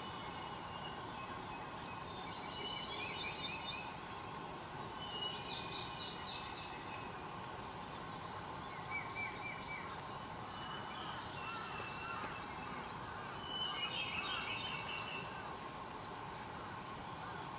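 Wild birds singing: short, high chirping and trilled phrases every second or two, several voices overlapping, over a steady background hum.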